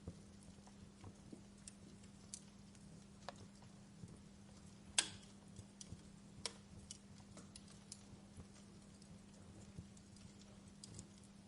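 Wood fire crackling in a fireplace: faint, irregular snaps and pops, with one louder pop about five seconds in, over a faint steady low hum.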